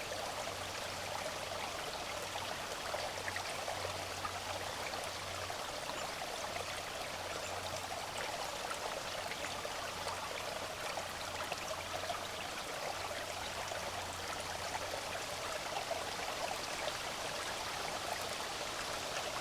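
Small creek flowing: a steady, even babble of running water.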